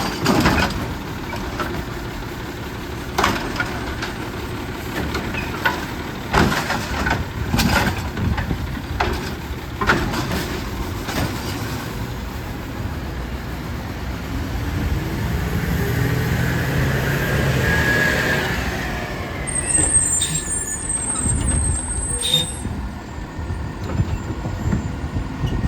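Garbage truck's diesel engine running, with repeated sharp knocks and bangs of trash and carts being dumped and handled. About fifteen seconds in the engine drone rises with a steady whine for a few seconds, as when the hydraulics are working.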